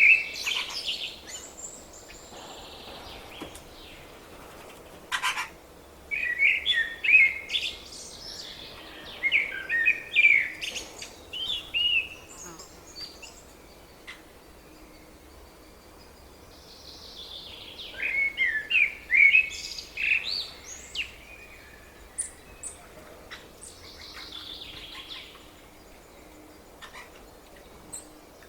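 Small songbird singing repeated phrases of quick, high notes, each phrase two to three seconds long, with pauses between them. A single sharp click about five seconds in.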